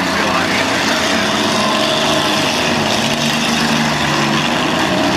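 Several demolition derby cars' engines running together in a loud, steady, overlapping din.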